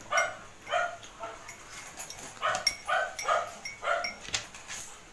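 A dog barking repeatedly off-screen: about eight short, high barks in quick succession, some in pairs.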